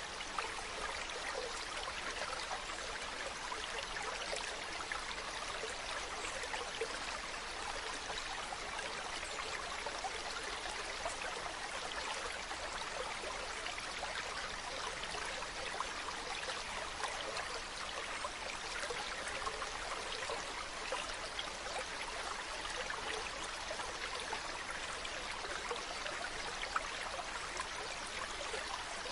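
Mountain stream running: a steady rush of water with fine splashes.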